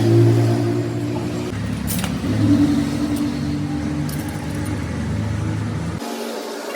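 A motor vehicle's engine running at low speed, its pitch shifting a few times, with a couple of light clicks. The drone cuts off abruptly near the end.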